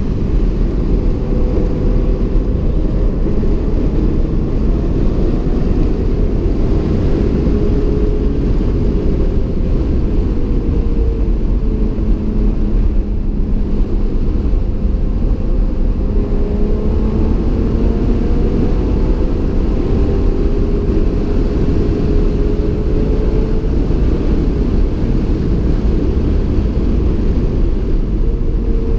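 Stock BMW M3 E36's 3.0-litre straight-six heard from inside the cabin at track pace, its pitch rising and falling as the driver accelerates and eases off through corners, over a heavy rumble of road and tyre noise.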